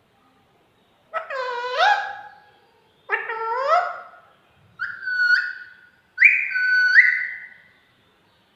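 Pet parrot giving four whistled calls, each gliding upward in pitch; the last two are higher and jump up sharply partway through.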